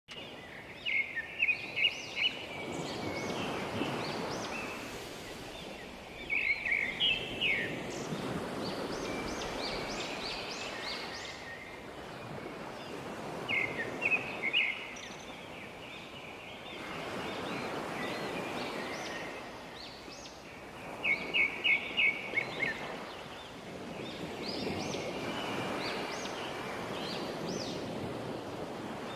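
Nature ambience: clusters of quick, high bird chirps every few seconds over a steady rushing noise that swells and fades roughly every seven seconds.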